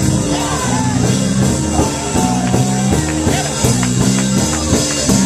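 Gospel church band music: held keyboard chords over a bass, with regular drum and tambourine hits keeping the beat.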